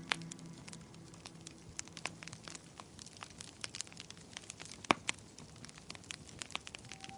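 Wood fire crackling in a fireplace: irregular sharp pops and snaps, one louder pop about five seconds in. Soft held music tones fade out near the start.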